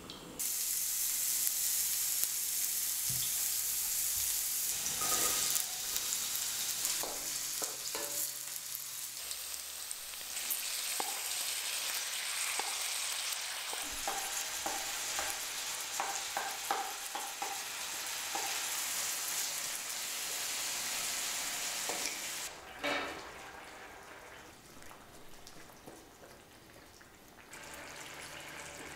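Food sizzling in hot oil in a stainless steel wok, with scattered clicks of a utensil stirring: aromatics, onion and marinated beef cubes frying. The sizzle starts suddenly and dies away about two-thirds through, and near the end the finished curry bubbles quietly as it simmers.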